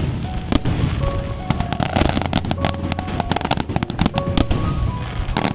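Fireworks display: a dense run of sharp bangs and crackles over a steady low rumble, with music alongside.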